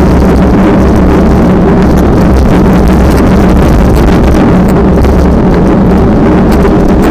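Strong wind blowing hard over the microphone: a loud, steady rumble with no let-up.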